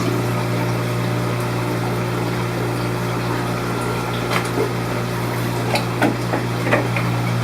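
Steady hum of an aquarium fish room's pumps and water circulation, with a few light clicks and knocks in the second half.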